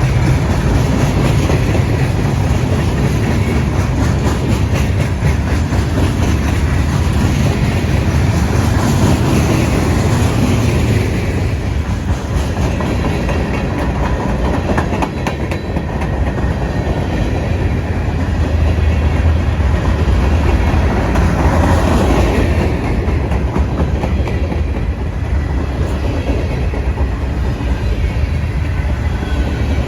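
Freight train cars rolling past steadily, the wheels clacking over the rail joints.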